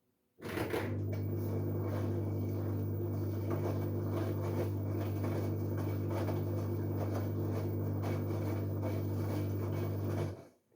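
LG Direct Drive 8.5 kg washing machine during a dark wash: a steady electric hum with rushing water starts suddenly, runs evenly for about ten seconds, then cuts off suddenly, as the machine briefly runs a pump or water valve.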